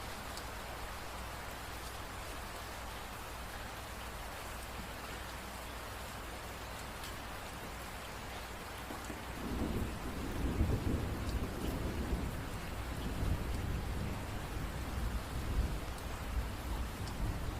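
Steady rain falling, and about halfway through a long, low roll of thunder comes in and rumbles on for several seconds.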